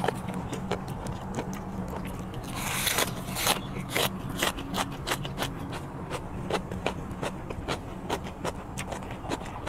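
Wet chewing and lip-smacking from eating blanched squid: sharp clicks several times a second, with a short louder burst of noise about three seconds in as a bite goes into the mouth.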